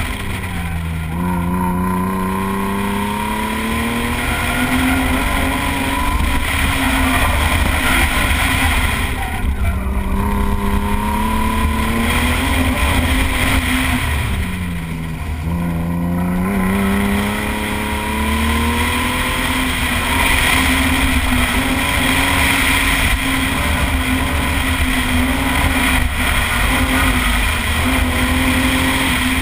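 A car engine driven hard, heard from inside the cabin, its pitch climbing and falling repeatedly with throttle and gear changes through a cone course. The pitch drops sharply about a second in and again about halfway through before climbing back up.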